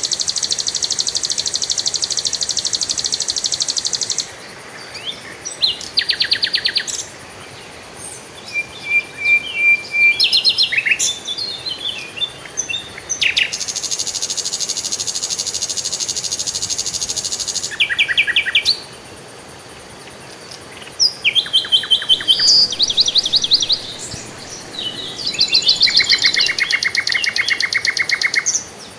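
Songbirds singing in turn: long, high, fast trills, quick runs of repeated notes and scattered chirps, with short pauses between phrases.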